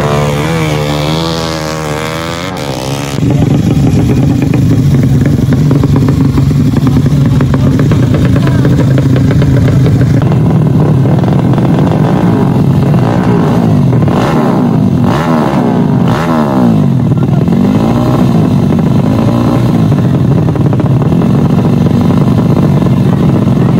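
Drag-bike motorcycle engines revving loudly. The revs wobble quickly up and down at first, hold a steady drone, then rise and fall several times in succession.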